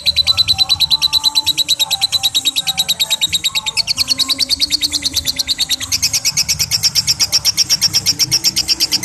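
Lovebird's ngekek: one long, unbroken chatter of rapid, sharp high notes, about ten a second, stepping up in pitch about four seconds in and again about six seconds in.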